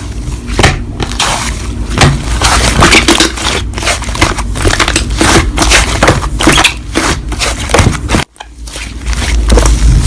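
Slime being played with, giving dense, irregular crackling and crunching clicks. The sound cuts out abruptly for a moment about eight seconds in.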